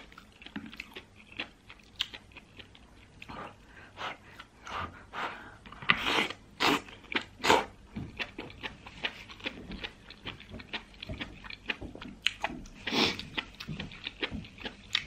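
Close-miked chewing and wet mouth sounds of a person eating spicy sliced fatty beef and vegetables in broth. There are many small clicks throughout, with a few louder bursts about six to seven and a half seconds in and again around thirteen seconds.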